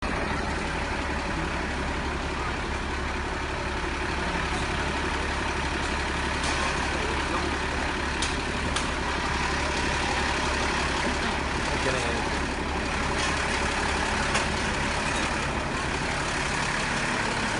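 Fire truck engine idling with a steady low hum, with a few short clicks partway through.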